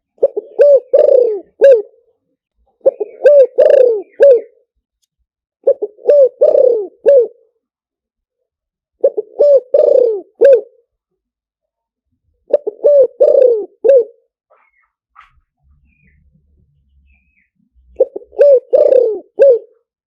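Spotted dove cooing: six phrases of several low, rolling coos, each phrase about a second and a half long and repeated every three seconds or so, with a slightly longer pause before the last one.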